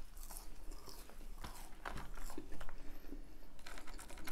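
Close-miked eating: chewing McDonald's fries and biting into a burger, with small irregular crunches and mouth clicks and a denser crackle near the end.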